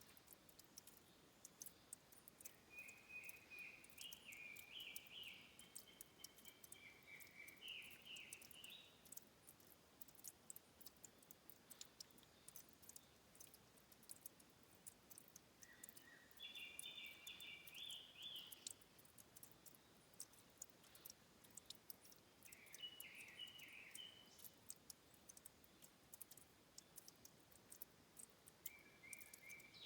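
Faint forest ambience at a stream's source: a songbird sings four short warbling phrases, the longest about six seconds, over a steady scatter of quick small ticks such as dripping water.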